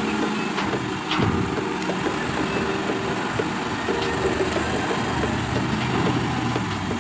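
Heavy diesel engine running steadily, with a sharp knock about a second in and a few lighter clicks.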